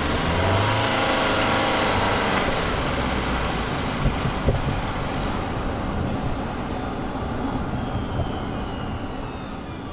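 Cabin noise of a 2023 Toyota Highlander Hybrid on the move: steady road and tyre noise with the hum of its 2.5-litre four-cylinder hybrid powertrain, strongest in the first few seconds. Two short knocks come about four seconds in, like the tyres going over bumps.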